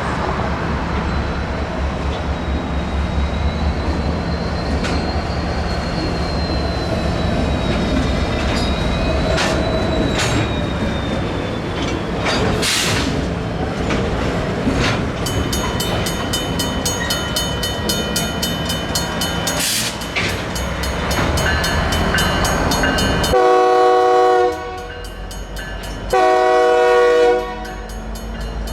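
Union Pacific diesel freight locomotives (an EMD GP60 leading two GP22T4s) rumbling at low speed. From about halfway a mechanical crossing bell clangs rapidly. Near the end the lead locomotive's air horn sounds two blasts.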